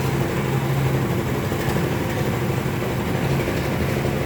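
Isuzu Elf dump truck's diesel engine running steadily.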